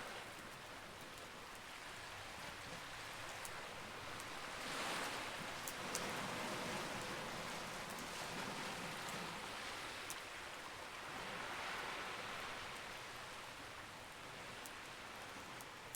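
Campfire crackling, with scattered sharp pops, over a steady wash of sea waves that swells up twice, about five and eleven seconds in.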